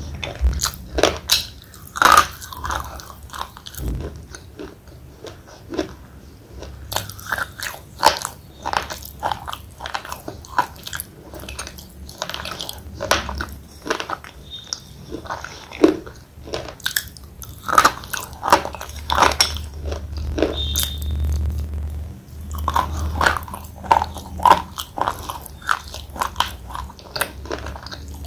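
Close-up crunching and chewing of thick slate pencil: irregular sharp crunches as the chalky pieces are bitten and ground between the teeth.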